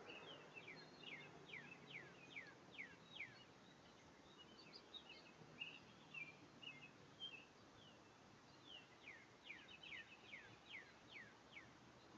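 Faint bird song: a run of quick, falling whistled notes, then softer chirping, then a second run of falling notes near the end.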